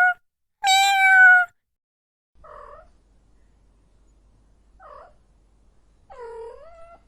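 Cat meowing: one loud, drawn-out meow about a second in, then three fainter, lower meows a couple of seconds apart, the last one bending down and up in pitch.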